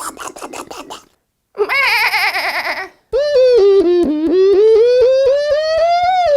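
A person making vocal sound effects with the mouth. First a quick run of clicks, then after a brief pause a fast-warbling tone, then a long high call that breaks up about three or four times a second, rises slowly in pitch and falls away near the end.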